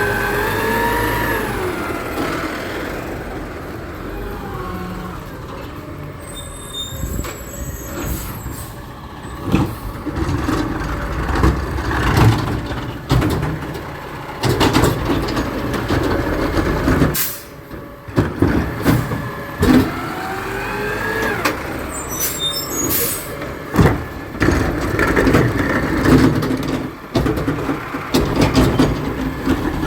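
Garbage truck at work. Its engine revs up and falls back at the start, and there are repeated bangs and clanks after that, with brief high squeals twice.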